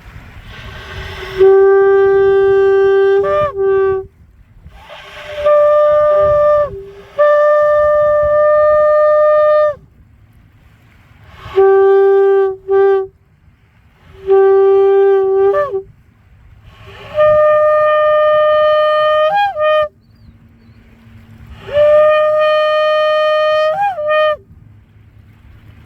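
A shofar blown in seven long blasts with short breaks between them. Each blast is a held, buzzing note, some on a lower pitch and some on a higher one, and most end with a quick upward break in pitch.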